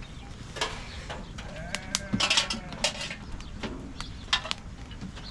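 A farm animal calling once, a drawn-out pitched call about two seconds in, among scattered sharp clicks.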